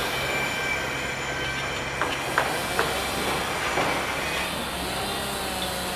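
Heavy construction machinery running with a steady low engine hum, with a few sharp metallic clanks about two seconds in and thin metal squeals.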